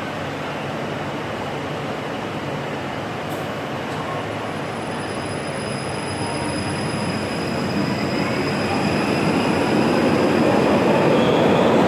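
Stuttgart Stadtbahn light-rail train approaching on the track, its rumble growing steadily louder over the second half, with a faint high-pitched whine above it.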